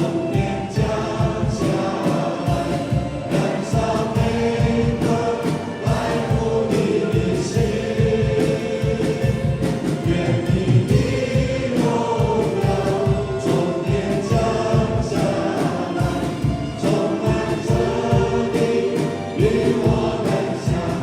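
Worship band playing a worship song with a group of voices singing long held notes over a steady beat.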